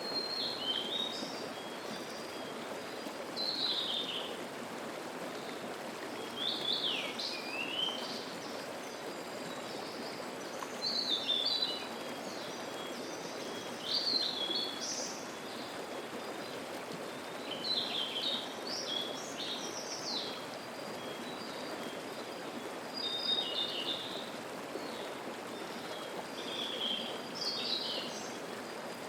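Mountain stream running over rocks in a steady babble, with a songbird singing short, high, warbled phrases every three to four seconds.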